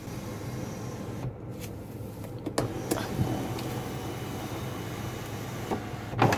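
Power sunroof motor of a 2017 Nissan Maxima running as the glass panel slides, with a steady hum and several clicks, the sharpest just before the end. The owner says the roof knocks when it closes, and he blames a misaligned, worn release part in the track.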